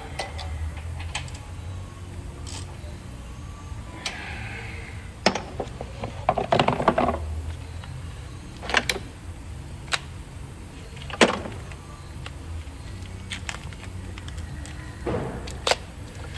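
Scattered sharp metallic clicks and clanks of tools and parts being handled, with a clattering stretch about six seconds in, over a low steady hum.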